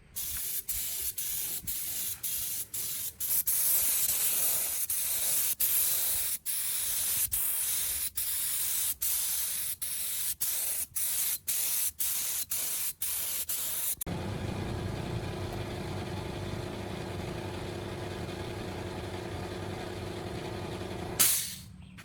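Compressed-air spray hissing in repeated squirts, cut by many brief pauses. About two-thirds of the way through it turns into a steadier hiss with a low hum underneath, then ends in a short, louder blast and stops.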